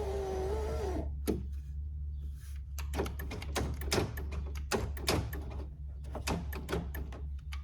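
1999 Toyota driver's-door power window motor whirring, stopping about a second in, followed by a string of irregular clicks and clunks from inside the door.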